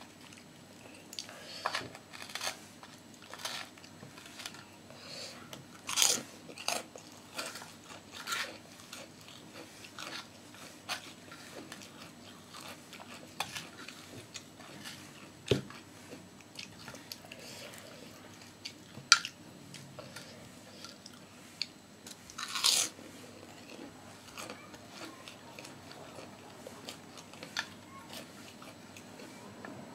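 A person chewing and crunching crisp food, with irregular crunches and small mouth sounds and a few sharper crunches scattered through.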